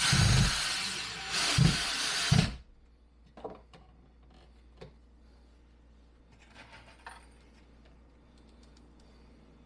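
Power screwdriver driving screws in two short runs in the first two and a half seconds, each ending with a knock as the screw seats; then scattered light clicks of tools being handled.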